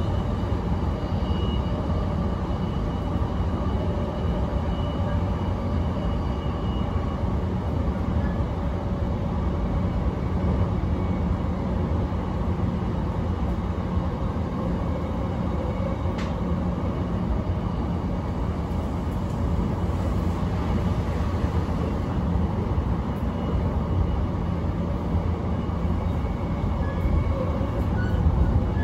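Cabin of a JR East commuter electric train running at speed: a steady rumble of wheels on rail and running gear.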